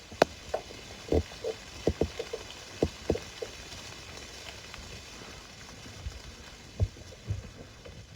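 Irregular short knocks and crackles, about a dozen, over a steady hiss.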